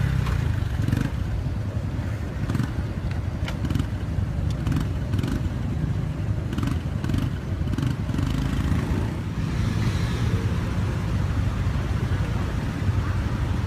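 Motor vehicle running, a steady low rumble of engine and road noise with scattered light clicks.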